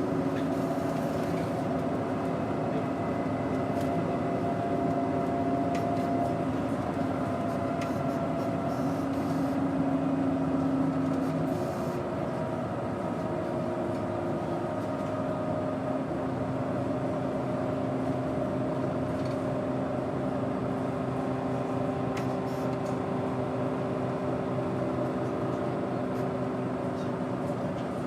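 Doosan GE12Ti natural-gas engine of a 2007 Daewoo BS110CN bus running with a steady drone; about twelve seconds in its note drops slightly and it runs a little quieter.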